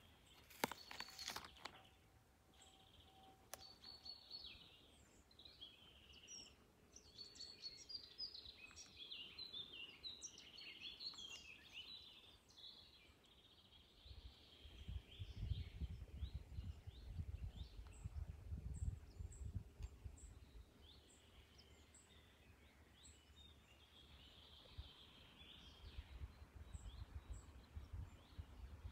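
Faint birdsong from small birds, quick chirps coming in flurries, busiest in the first half and again near the end. A low rumble, like wind on the microphone, rises and falls in the middle.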